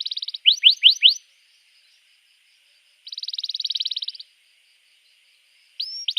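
Domestic canary singing: a fast trill cuts off just after the start, followed by four loud rising whistled sweeps. After a pause comes another fast trill about three to four seconds in, and near the end a rising note leads into a new trill.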